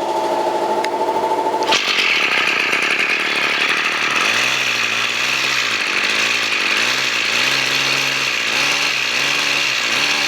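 Ryobi EKK-2610 brush cutter's small two-stroke engine, which had seized, running. A lower steady hum gives way about two seconds in to a sudden jump to high speed that is then held steadily.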